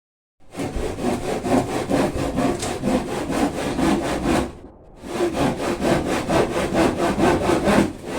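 Hand saw cutting through wood in fast, even strokes, with a short pause about halfway through.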